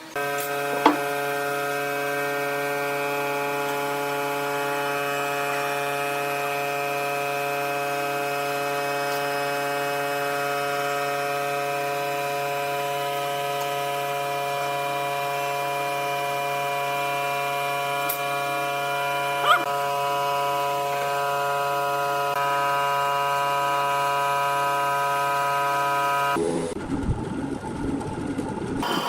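Steady, unchanging machine hum, like a power tool's electric motor running at constant speed, with a sharp click about a second in and another near two-thirds through. Near the end the hum gives way to the rough, uneven noise of a tool working wood.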